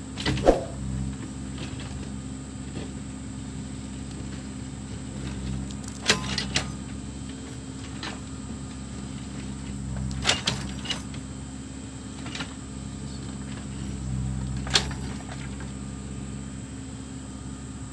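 Backhoe loader's diesel engine running steadily at work, with sharp metallic knocks every few seconds from the digging gear.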